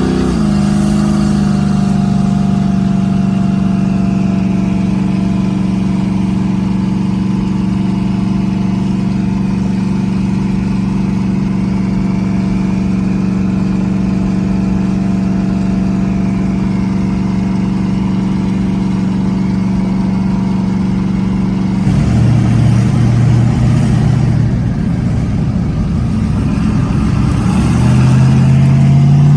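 Twin-turbo LS V8 engine pulling the car along the road. Its pitch drops just after the start, then holds steady at a cruise. About 22 seconds in it turns rougher and deeper, and near the end its pitch climbs as it speeds up.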